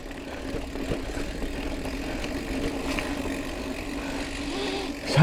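Mountain bike rolling steadily along a dirt trail: continuous tyre and drivetrain noise with a constant low hum.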